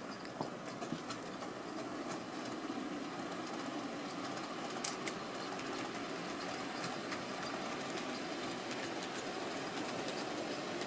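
Model trains running on layout track: a steady rolling rumble of wheels on rails, with scattered light clicks.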